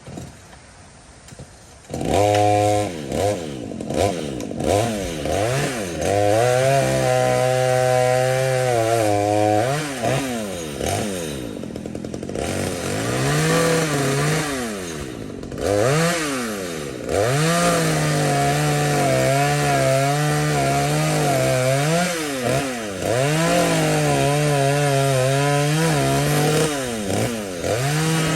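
Two-stroke chainsaw running, coming in suddenly about two seconds in, then revving up and down repeatedly with longer stretches held at steady high revs as it cuts wood.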